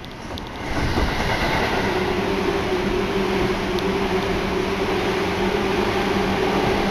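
Seibu Ikebukuro Line electric train moving alongside the platform: a steady motor hum over rumbling wheel-and-rail noise, growing loud about a second in and staying loud.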